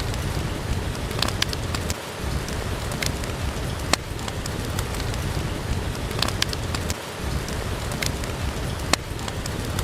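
Steady rain hiss over a low rumble, mixed with a crackling wood fire: scattered sharp pops and clicks come about once or twice a second.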